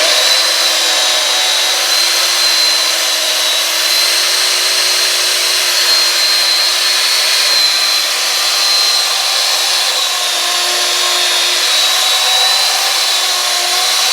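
Corded electric chainsaw running steadily at full speed, a high motor whine over a lower hum, wavering slightly in pitch as it cuts through small birch limbs.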